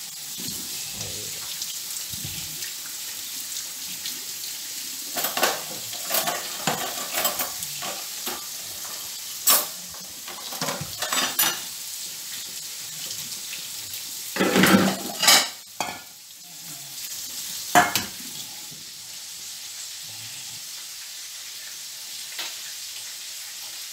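Steady sizzle of food frying in hot oil, with short bursts of clattering kitchen utensils and dishes several times, loudest a little after the middle.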